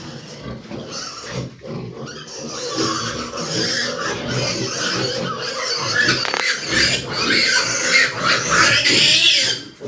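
Pigs grunting and squealing together in a continuous jumble of overlapping calls, growing louder and shriller in the second half.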